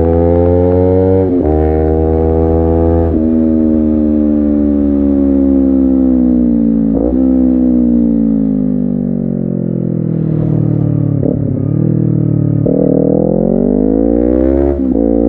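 Honda CBR250RR parallel-twin engine through an aftermarket racing exhaust, revving up through two quick upshifts in the first few seconds. The pitch then falls slowly as the bike rolls off, and it accelerates again near the end with another shift.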